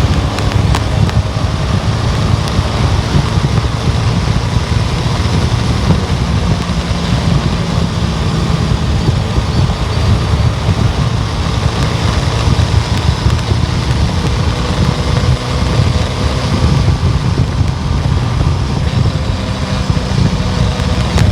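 A car on the road, its engine, tyres and wind making a steady low rumble with a constant hiss above it.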